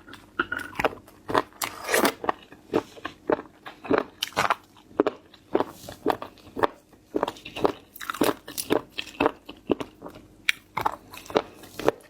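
Close-miked ASMR chewing of seafood: crunchy, crackling bites and chews at a steady rate of about two a second.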